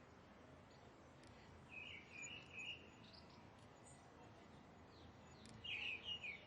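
Faint background noise with two short phrases of chirping bird song, one about two seconds in and one near the end.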